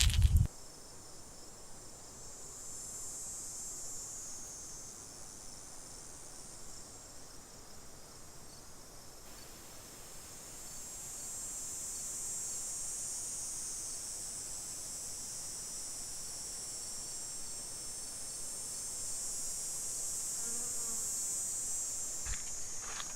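A chorus of insects buzzing in a high, steady drone that swells and fades in waves. There is a brief loud rustle at the very start and a few light knocks near the end.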